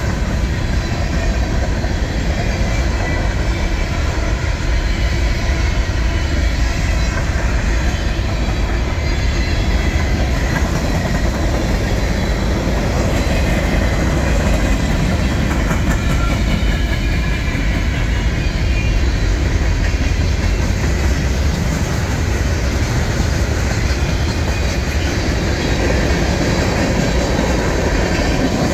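Freight cars of a Norfolk Southern train rolling past at steady speed: a continuous rumble of steel wheels on the rails, with some clickety-clack.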